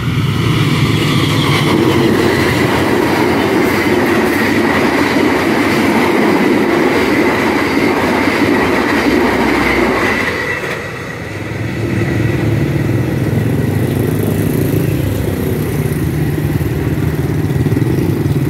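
A train running over a level crossing, its wheels rumbling on the rails with a steady high tone, until it dies away about ten seconds in. Then motorcycle engines run as bikes cross the tracks.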